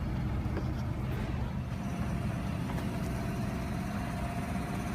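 Steady low rumble of vehicle noise, with a faint steady whine joining about two seconds in.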